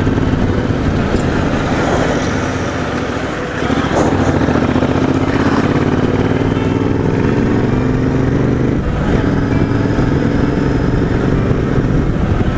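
Motorcycle engine running under way, its note rising steadily from about four seconds in, with brief dips near the start and about nine seconds in, as at gear changes.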